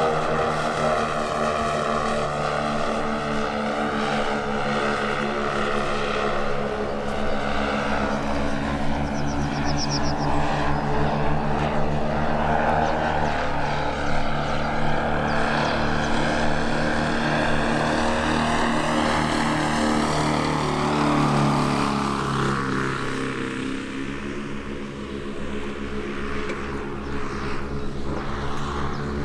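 Twin piston engines of a quarter-scale radio-controlled Beech 18 model airplane running in flight. The pitch drops about two-thirds of the way through as it passes, and the sound eases off a little before picking up again.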